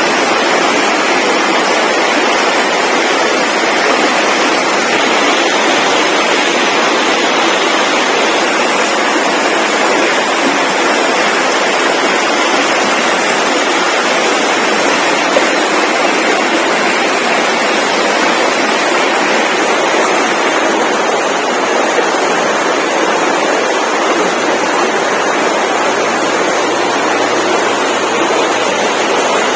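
Steady, loud rushing noise with no distinct events, the kind made by running water or wind.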